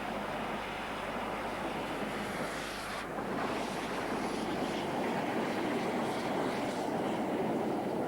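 Steam locomotive running with its train, a continuous rushing noise that grows louder about three seconds in.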